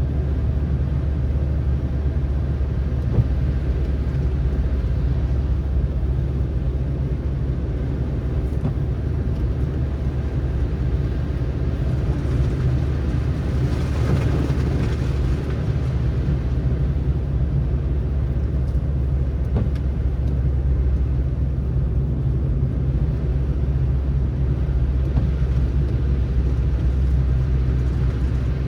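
Car driving on a snowy road: a steady low rumble of tyres and engine, with a brief swell of hiss about halfway through.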